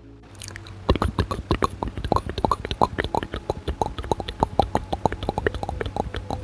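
Layered ASMR mouth sounds: rapid wet clicks and smacks of the tongue and lips, many a second, starting about a second in over a faint steady low hum.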